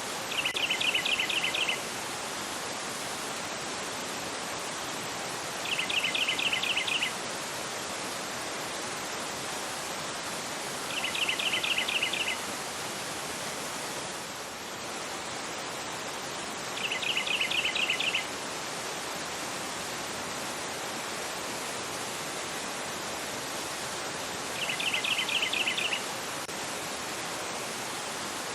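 Fast river rushing over a rocky bed, a steady hiss of water. Over it a bird gives a short rapid trill five times, each lasting about a second and louder than the river, roughly every five or six seconds.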